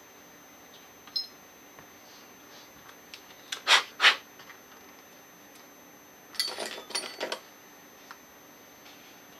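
Metal parts of a TUSA scuba regulator first stage being handled during disassembly: a small click, two short sharp scraping noises close together, then a quick cluster of light metallic clinks.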